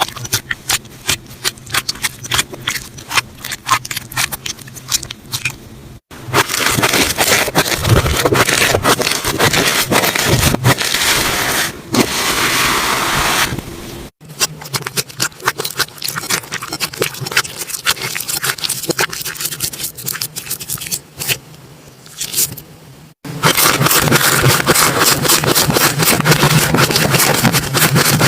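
Slime being squished and poked in back-to-back short clips: stretches of quick sharp clicks and pops alternate with stretches of dense, steady crackling, and the sound changes abruptly at each cut.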